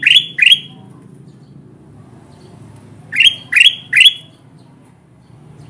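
Kutilang emas (ruby-throated bulbul) calling: a quick series of loud, sharply rising notes, two right at the start and three more about three seconds in. This is a recorded lure call used to draw wild birds of the same species.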